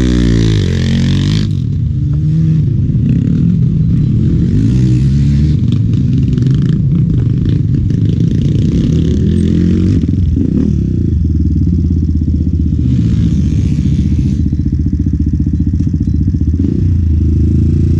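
Enduro motorcycle engine running hard on a trail, its pitch rising and falling as the throttle opens and closes.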